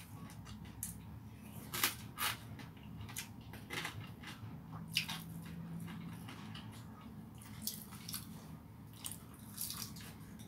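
A person eating rice and chicken by hand: wet chewing and mouth clicks in irregular short bursts, with fingers working food on a plate.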